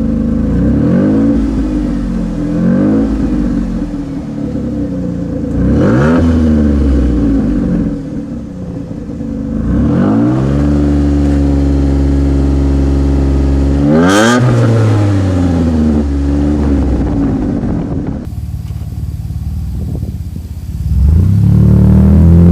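Yamaha-built 3.0-litre 60-degree V6 of a Ford Taurus SHO revving: a few short blips up and back down, then a longer climb held at high revs for several seconds that drops off suddenly. After a quieter steady stretch the revs climb again near the end.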